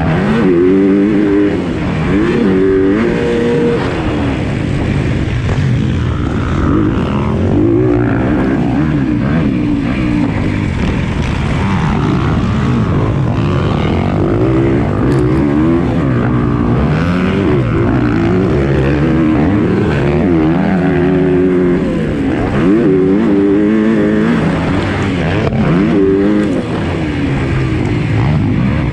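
Motocross bike engine under hard throttle, its pitch rising and falling again and again as it revs up and backs off.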